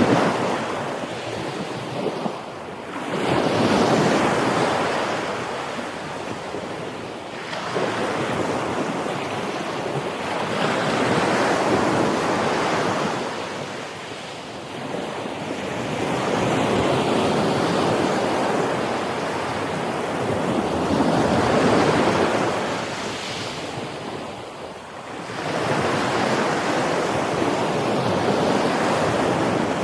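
Ocean waves breaking and washing in, the surf rising and falling in a slow rhythm: a surge every four to six seconds.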